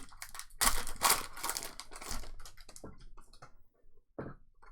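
Trading-card packs being handled: a loud burst of crinkling and rustling in the first couple of seconds, then a few light clicks and taps as cards are moved.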